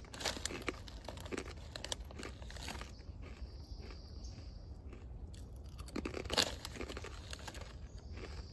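Crinkling, crunching handling noise in two clusters, one in the first few seconds and a louder one about six seconds in, with a faint high-pitched trill that comes and goes.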